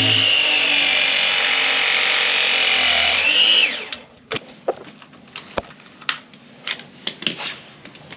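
A battery-powered tool's motor whining steadily, then dropping in pitch and stopping about three and a half seconds in. It is followed by a run of light clicks and knocks of tools and fittings being handled.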